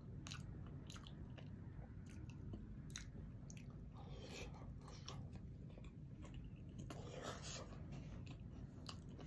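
Close-miked eating sounds: chewing and lip smacking on shrimp-boil food, with many small sharp clicks scattered through.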